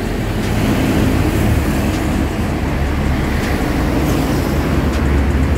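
Steady low engine hum over outdoor traffic noise, swelling slightly near the end.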